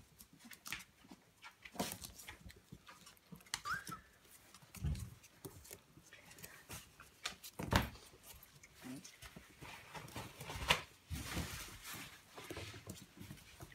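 Two-week-old Siberian husky puppies scuffling and crawling over each other, with rustling, dull bumps and a brief high squeak a few seconds in.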